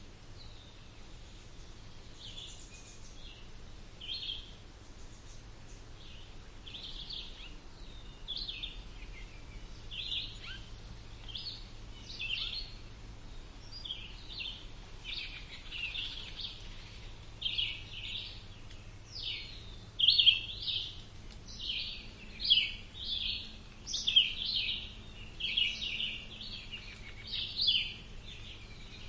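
Birds singing: many short chirps and warbled notes, sparse at first and coming thick and loud in the second half.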